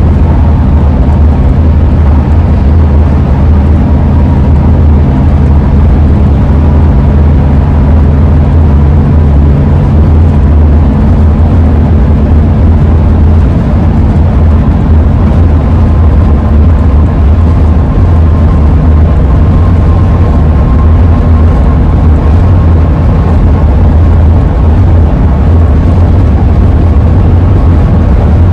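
Ford E-350 van driving at speed, heard inside the cab: a loud, steady low road-and-engine rumble. Over it runs a faint, steady high tone, the wind howl of the roof rack, which creeps up in pitch slightly about halfway through.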